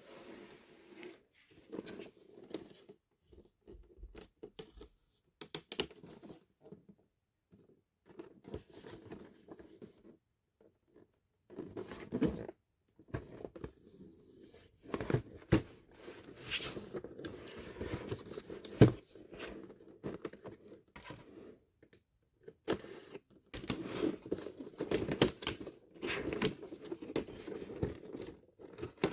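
Intermittent clicking, tapping and rustling of hands handling plastic toy parts and packaging. The sounds are sparse with gaps at first and grow busier from about halfway, with one sharp click.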